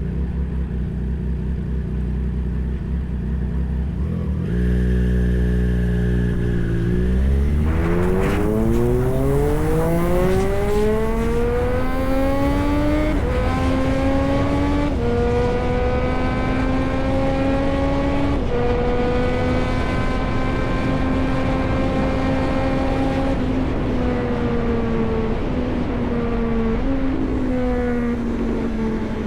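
Triumph Street Triple 765 RS's three-cylinder engine: a low, even rumble at first, then a long rising note as the bike accelerates, with gear changes as steps in the pitch. It holds a steady note at cruising speed, then eases off with a slowly falling note and further gear changes near the end.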